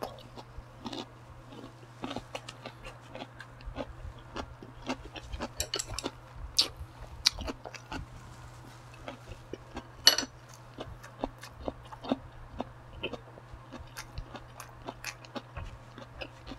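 A person chewing and biting food close to a clip-on microphone: many small wet mouth clicks and crunches, with a few louder crunching bites about 6.5 and 10 seconds in.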